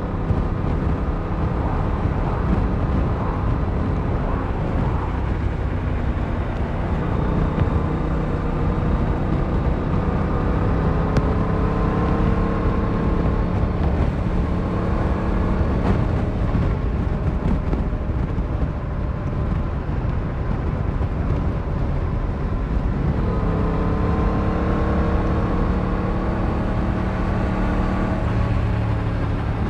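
Yamaha MT-07's 689cc inline-twin engine running while riding, with a rush of wind. Its note climbs steadily under throttle, fades back in the middle and climbs again about three quarters of the way through.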